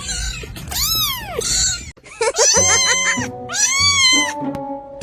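Kittens meowing several times, high-pitched calls that rise and fall in pitch, over background music.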